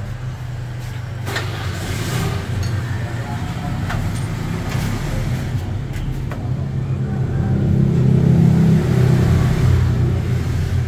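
A motor vehicle engine running steadily with a low drone that grows louder about eight seconds in. Several sharp metallic clicks of a wrench on the exhaust fittings sound over it.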